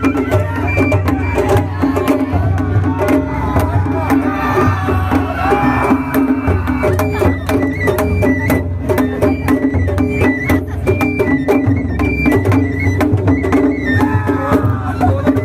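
Traditional Japanese festival music: drums and steady clicking percussion, with short high melodic notes over them, and people's voices mixed in.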